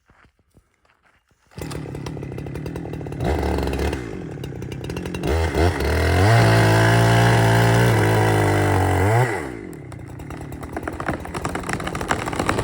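Bumar-AG 82cc two-stroke chainsaw: after a brief near-silent gap it comes in running, revs up and holds steady at full throttle for about three seconds in the middle, then drops back to lower, uneven running near the end.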